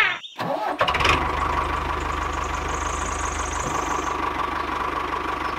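Tractor engine idling steadily with a fast, even putter, starting about a second in.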